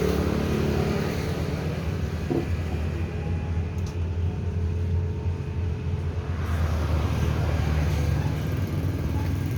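A steady low engine rumble running in the background, with a couple of faint clicks about two and four seconds in.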